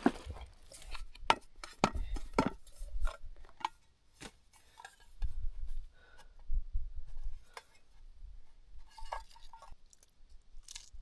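Footsteps on a loose, stony mountain trail: hard stones clicking and clinking underfoot at an irregular pace, with a few dull thumps.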